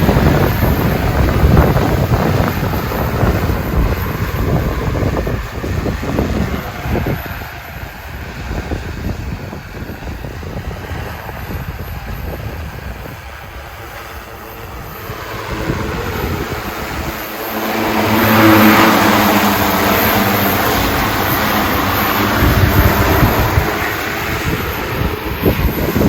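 Super X 1.6 agricultural spray drone (EFT G416 frame, three-blade propellers) in flight, its propellers humming under strong gusty wind that buffets the microphone. The wind rumble is heaviest at first; about two-thirds of the way through, the drone's hum swells loud as it comes close, then slowly eases.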